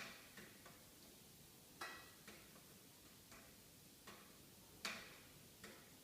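Wood fire burning in a fireplace, crackling with irregular sharp snaps and pops: three louder cracks among fainter ones.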